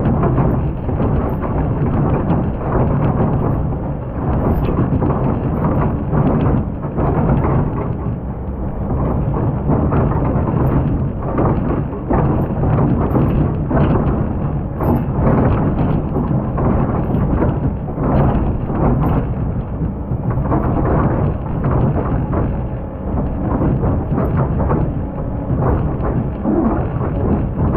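Excavator engine running under load with a steady low drone, while the bucket scrapes and crunches through hard-packed old sand with a continuous irregular crackle and grind.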